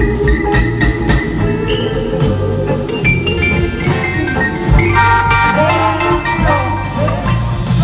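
Live rock-soul band playing an instrumental passage: drums and bass under held chords, with a lead melody line bending and gliding in pitch about halfway through.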